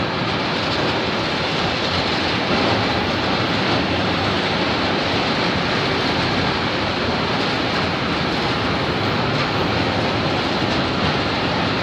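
Freight train of gas tank wagons rolling past at close range: a steady, continuous noise of wagon wheels running on the rails.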